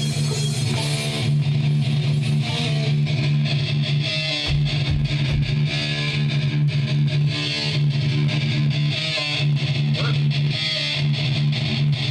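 Electric guitars with distortion jamming loudly over a steady low note.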